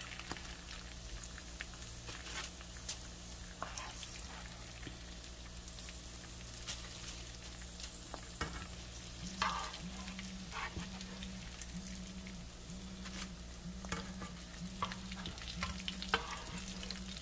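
Salmon croquettes frying in shallow hot oil in a pan, sizzling steadily, with scattered light clicks and scrapes of a metal slotted spatula as the patties are lifted out.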